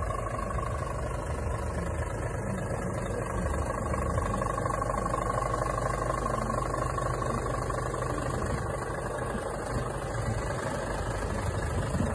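Scania S500 truck's engine running steadily, a low continuous drone, with a fainter higher whine over it that fades out about halfway through.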